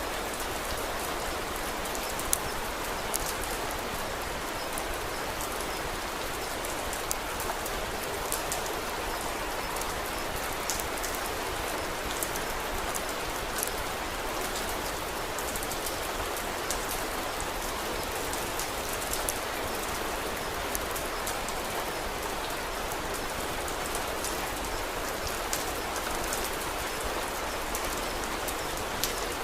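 Steady rain falling on a surface, an even hiss with scattered sharp clicks of drops or crackles.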